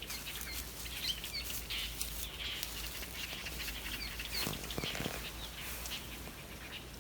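Small birds chirping outdoors, many short high chirps and little rising and falling notes, over a steady low background rumble. A brief soft rustle comes about four and a half seconds in.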